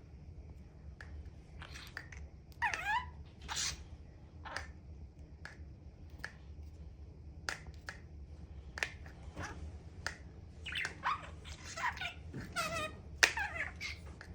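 A pet making short squeaky calls that bend and fall in pitch, mixed with sharp clicks, busier in the second half.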